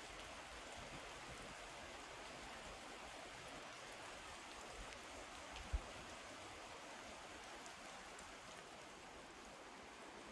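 Steady, quiet patter of light rain. A single brief low thump comes a little past halfway through.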